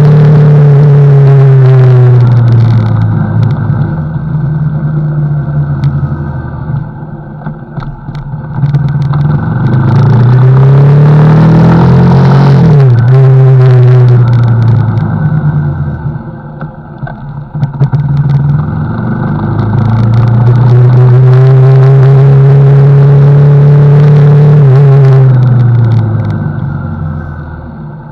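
CFMoto NK motorcycle engine running under way. It holds a steady note, drops as the throttle closes a couple of seconds in, then winds up again around ten seconds. It drops again, builds and holds from about twenty seconds, and eases off near the end.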